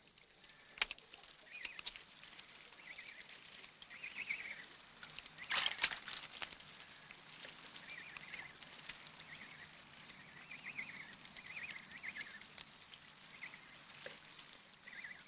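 Faint outdoor wildlife ambience: short chirping bird calls repeat every second or so, with a couple of brief sharp knocks, the louder one about six seconds in.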